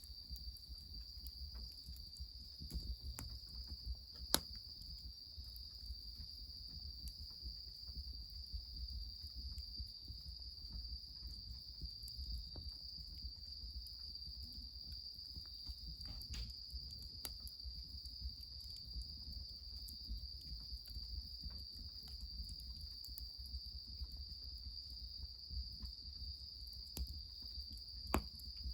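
Steady, unbroken chirring of insects in the night, with a few sharp cracks, the loudest about four seconds in, over a low rumble.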